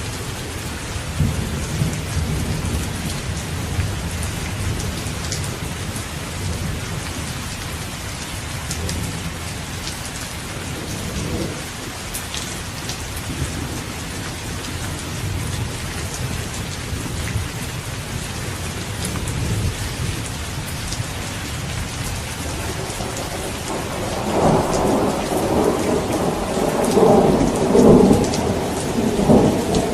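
Steady heavy rain falling, with thunder rumbling low beneath it. A louder roll of thunder builds in the last few seconds.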